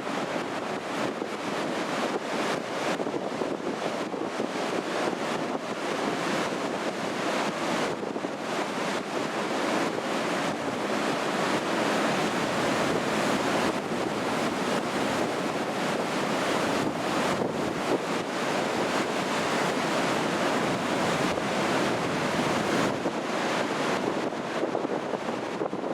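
Rough, typhoon-driven surf breaking on the shore as a steady rush of waves, with wind buffeting the microphone.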